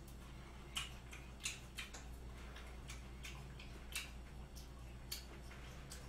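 A person chewing raw beef yukhoe with a full mouth: faint, wet mouth clicks and smacks at irregular intervals, over a steady low hum.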